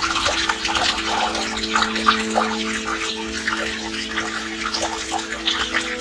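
Water splashing and running, an irregular busy spatter, over a few steady low tones.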